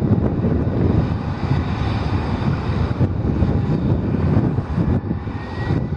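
Aircraft engines running, a steady low rumble with a faint high whine, mixed with wind buffeting the microphone.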